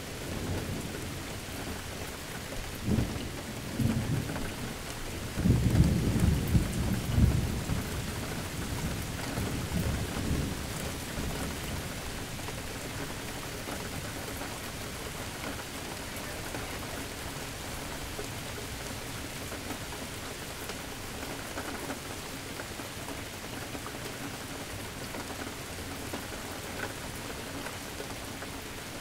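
Steady rain falling, with a roll of thunder that rumbles up a few seconds in, is loudest around six to seven seconds, and dies away by about eleven seconds, leaving only the rain.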